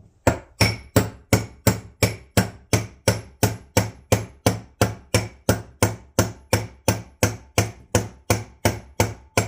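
Hammer blows on metal, a steady run of evenly spaced strikes about three a second, each ringing briefly, driving a part home on a differential.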